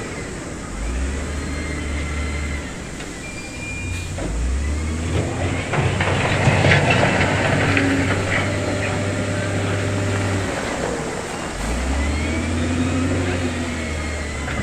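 Heavy diesel earthmoving machinery running, its engine revving up and easing off in repeated swells. The loudest stretch comes midway, with clanks and rattles over the engine.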